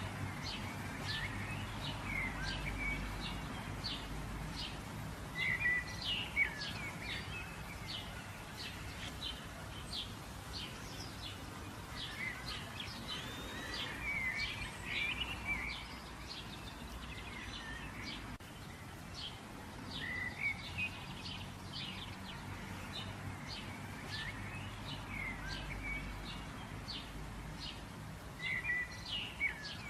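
Birds chirping: many quick short calls mixed with some warbled phrases, over a faint steady low hum.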